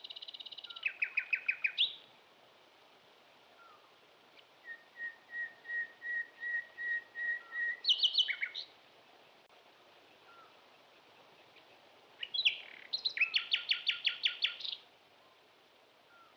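Small birds chirping: quick bursts of high chirps, a steady run of about ten evenly spaced notes at one pitch in the middle, and a burst of rapid chirps near the end.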